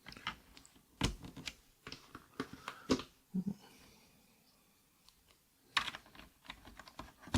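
Keys on a mechanical keyboard with Akko Rosewood switches pressed in irregular clusters of sharp clacks, with a pause of about two seconds midway.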